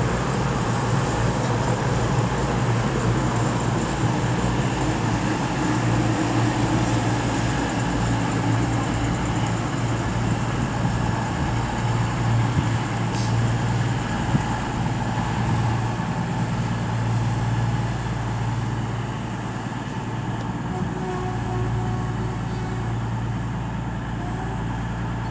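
Underfloor diesel engines of two coupled Class 220 Voyager trains running with a steady low drone.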